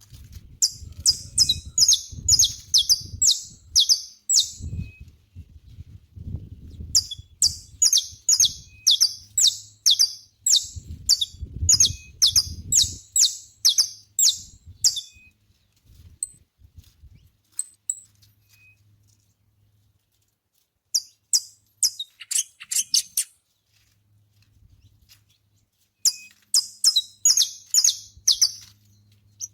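Saffron finch singing: four phrases of rapid, high, repeated sweeping notes, each a few seconds long, with short pauses between them.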